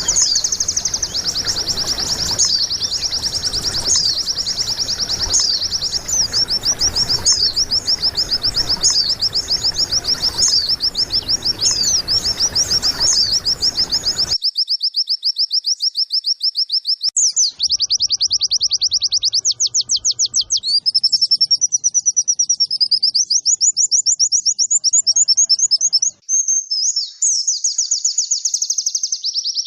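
White-eye (pleci) singing a long, unbroken song of rapid high chirps and chattering trills. Background noise under the song in the first half stops abruptly about halfway through, leaving the song alone.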